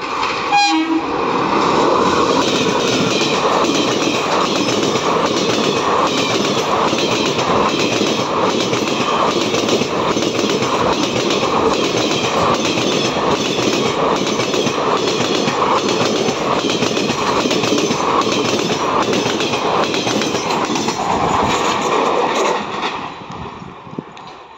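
Express train with a WAP4 electric locomotive passing at speed over the points: the wheels clatter in a steady rhythm over the crossing's wing rail. The run lasts about 22 seconds and fades near the end as the last coach goes by.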